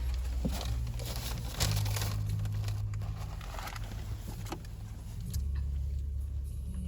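Paper food wrappers rustling and crinkling in short bursts, over a low steady hum that shifts pitch a few times.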